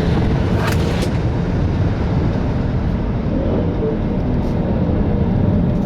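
Ford Mustang Shelby GT500's supercharged V8 running hard under full-throttle acceleration, a loud steady low rumble, with the rear tyres still slipping for grip.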